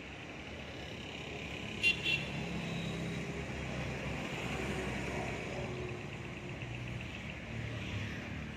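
Road traffic going by, a low rumble that swells and fades, with two short horn toots about two seconds in.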